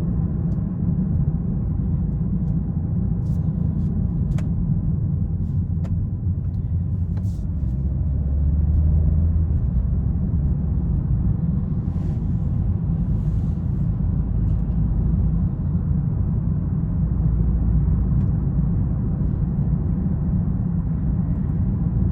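2020 BMW 330i with its 2.0-litre turbocharged four-cylinder under way: a steady low rumble of engine and road noise, swelling briefly about eight seconds in.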